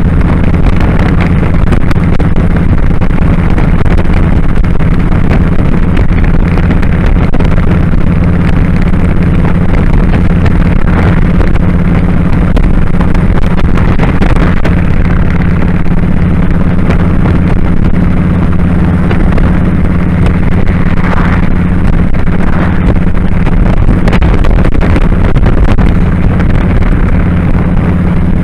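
2001 Kawasaki Drifter 1500's V-twin engine running steadily at cruising speed, with loud wind rushing over the microphone.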